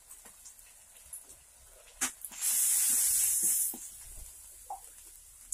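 A spatula clicks against the metal kadai, then the spice paste frying in hot mustard oil sizzles loudly for just over a second as it is stirred, before dying back to faint crackles.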